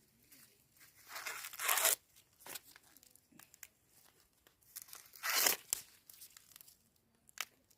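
Corn husks being torn off ears of corn: two louder rasping rips, about a second in and about five seconds in, with light rustling and crackling between.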